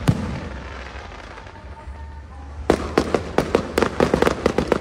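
Aerial fireworks: a sharp bang from a shell bursting, then, after a couple of seconds of fading rumble, a rapid crackle of many small sharp pops from crackling stars.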